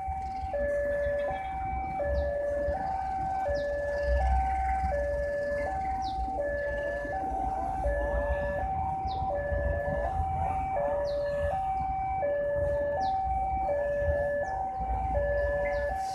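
Railway level-crossing warning alarm sounding its two alternating electronic tones, high then low, about three-quarters of a second each, with a low rumble under it.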